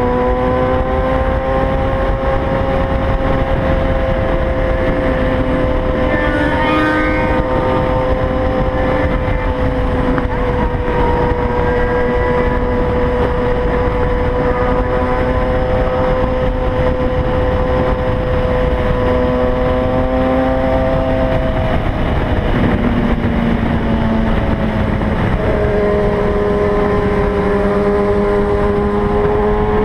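Kawasaki Ninja ZX-6R inline-four engine running at steady high revs while cruising, over heavy wind noise. About 22 seconds in the pitch dips, then it settles at a steady, slightly lower pitch.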